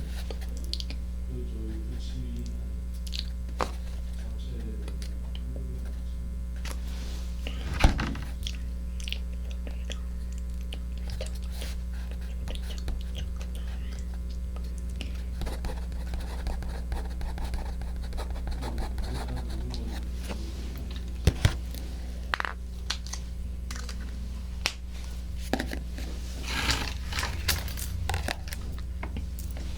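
Close-up ASMR trigger sounds on a 3Dio binaural microphone: scattered small clicks and crackles over a steady low hum, with a few louder crackling bursts.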